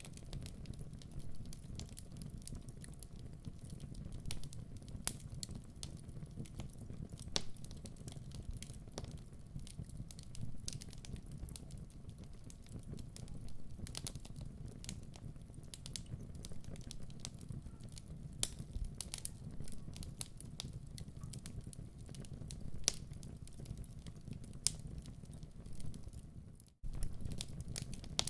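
Wood fire crackling in a fireplace: irregular snaps and pops over a low steady rumble. The sound cuts out for a split second near the end, then carries on.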